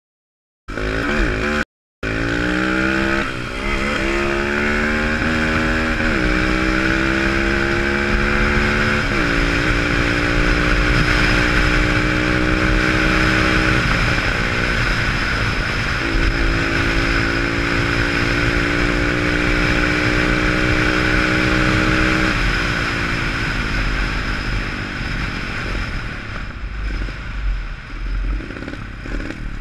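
Pit bike engine under way, revving up and dropping back in pitch several times as the rider shifts through the gears, then easing off near the end. A steady rushing noise runs under it.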